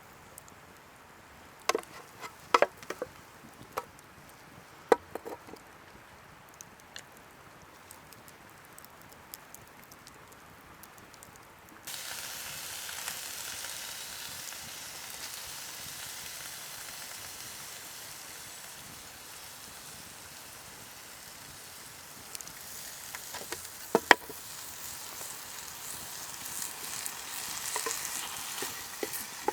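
A few scattered knocks and clicks, then about twelve seconds in, food hits a hot pan over an open fire and starts sizzling steadily, with a couple of sharp clicks partway through.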